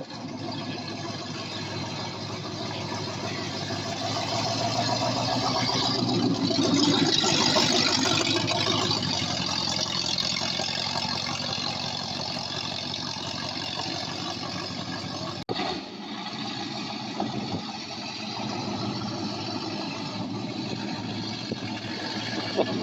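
Car engine running at idle, swelling louder for a few seconds, with a sudden break about two-thirds of the way through.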